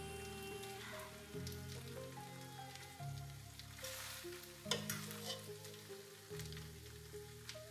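A metal fork scraping and clinking against a nonstick pot as sauced spaghetti is stirred and lifted out, with a light sizzle and a sharp clink about 4.7 seconds in. Under it, background music holds low notes that change about every second and a half.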